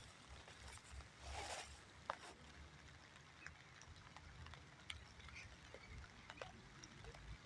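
Near silence: faint outdoor ambience with a few scattered light taps and a brief soft rustle about a second and a half in.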